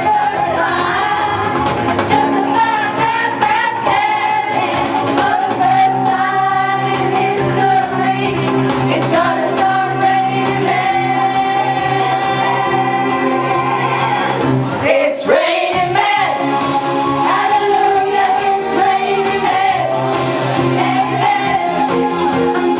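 A karaoke singer singing a pop song over a backing track, holding long wavering notes. The backing's bass drops out for a moment about fifteen seconds in.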